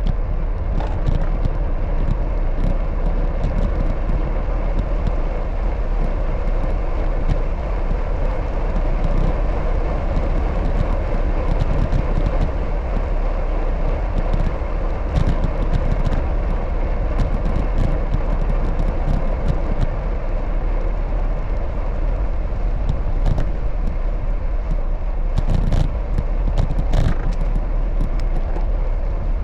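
Steady low rumble and road noise from a moving bicycle, with scattered clicks and rattles.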